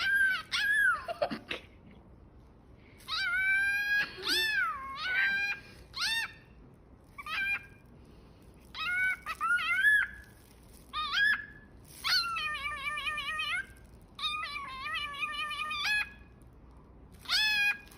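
A cockatiel mimicking a cat's meow: a string of about a dozen short meow-like calls that rise and fall in pitch, a few longer ones with a wavering tone.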